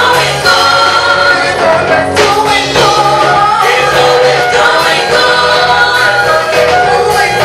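A choir singing gospel music in harmony, with instrumental backing and a steady bass line.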